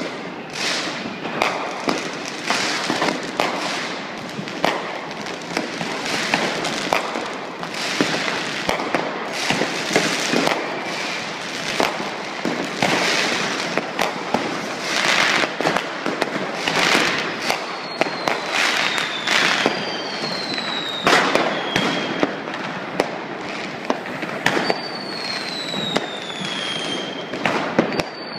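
Fireworks and firecrackers going off without pause, many overlapping bangs and cracks. In the second half several falling whistles sound through the bangs.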